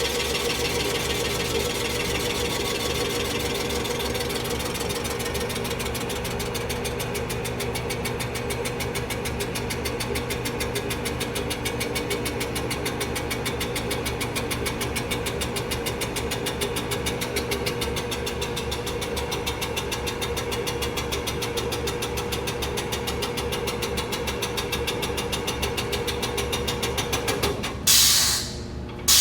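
Rottler F10XS CNC boring machine running a cylinder bore cycle, its spindle turning steadily as the boring head feeds down to clear below the freshly bored cylinder: a steady machine hum with a fast, even chatter. Near the end the machine sound cuts off abruptly and a short, loud hiss comes twice.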